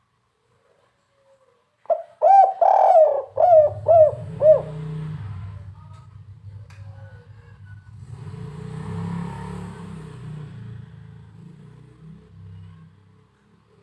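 Spotted dove giving one phrase of its 'kuk 3' coo call, a quick run of about six deep, arched coo notes, about two seconds in. Beneath it a low rumble starts and swells around the middle before fading away near the end.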